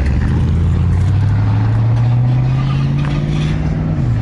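Car engine accelerating, its pitch rising slowly and steadily, then dropping near the end as it shifts or eases off.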